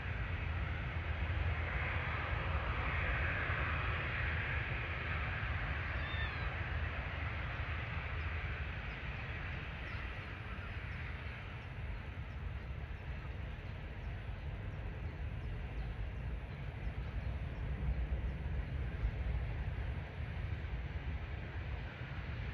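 Wind buffeting the microphone as a steady low rumble under outdoor airfield noise, with a few faint high bird chirps.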